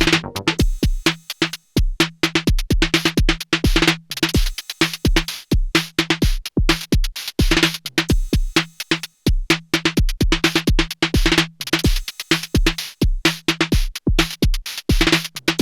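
Erica Synths Perkons HD-01 analog drum machine playing a techno pattern at 128 bpm. A steady kick falls on every beat under dense noisy hat and snare hits, with a repeating pitched low drum tone.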